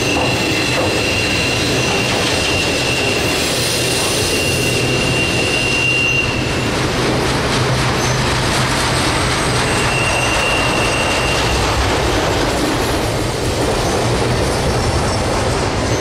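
Freight train rolling past close by with a steady rumble and clatter of wheels on rail. A high, steady wheel squeal is held for the first six seconds or so, then comes back briefly past the middle.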